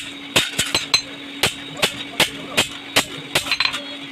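Hammer blows on sheet metal in a steady rhythm, about two or three a second, with a few quicker light clinks near the end, over a steady hum.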